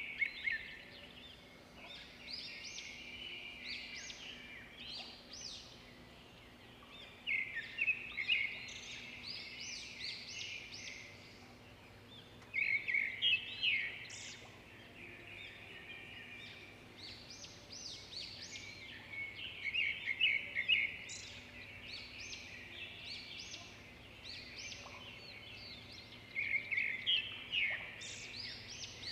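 Birds singing: a louder phrase of rapid chirps comes back every five to seven seconds, with quieter chirping in between.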